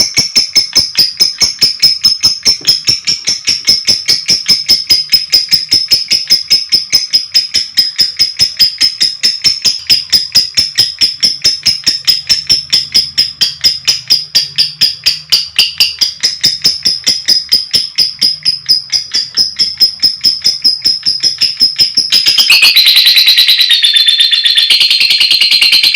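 Lovebird giving a fast, even string of shrill chirps, several a second. About 22 seconds in it breaks into a louder, continuous chattering trill, the long 'ngekek' call.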